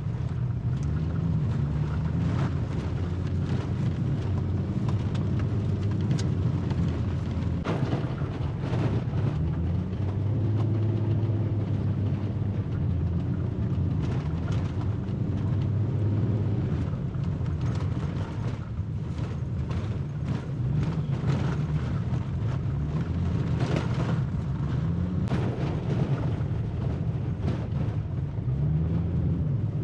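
Vehicle engine and tyre noise on a rough gravel road, heard from inside the vehicle. The engine pitch rises and falls several times as it climbs, with scattered knocks and rattles from bumps.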